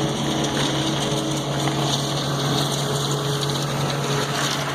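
An engine running steadily: a constant low hum with a few steady higher tones over a rushing noise, no change in speed.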